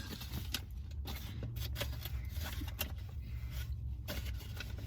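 Quiet eating and food-handling noises: scattered small clicks and rustles of food and wrappers over a steady low hum.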